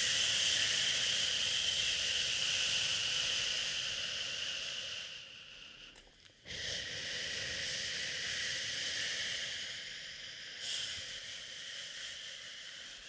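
A person shushing "shhh" in long, steady breaths to soothe a baby. The first shush fades out about six seconds in, and after a brief pause a second long shush starts, swelling once near the end before it slowly trails off.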